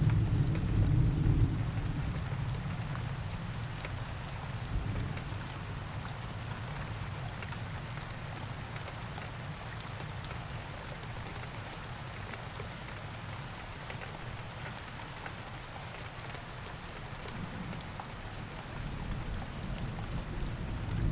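Steady rain with scattered drop ticks and rolling thunder. One low rumble fades out over the first couple of seconds, and another builds near the end.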